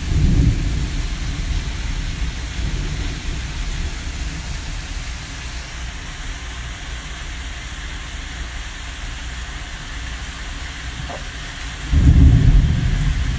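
Steady rain falling, with a low rumble of thunder in the first second and a louder rumble near the end.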